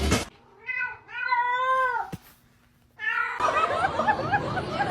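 Domestic cat meowing twice: a short meow, then a longer one that drops in pitch at the end. About three seconds in, a loud burst of laughter starts.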